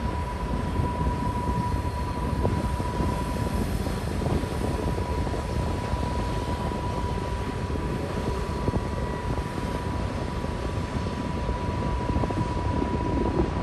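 Manifest freight train rolling past with a steady, unbroken rumble of wheels and cars. A thin, steady high squeal holds above it almost throughout.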